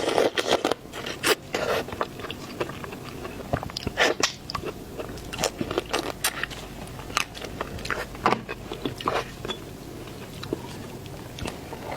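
Biting and crunching into crab: irregular sharp cracks and crunches, with quieter chewing between them.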